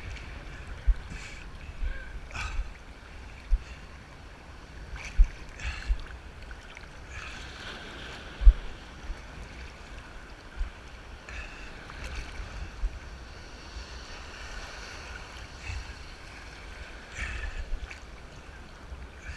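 Sea surf washing and sloshing close around the microphone, swelling and easing as waves pass, with sudden thumps of wind or splashing hitting the microphone.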